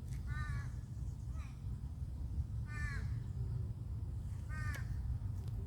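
Peafowl giving three short, clear calls, each a quick arched note about two seconds apart, over a steady low rumble of wind or background noise.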